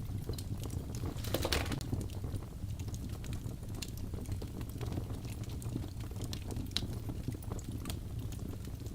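Wood fire burning in a fireplace: a steady low rumble of flames with irregular sharp crackles and pops from the logs, a brief burst of denser crackling about a second and a half in.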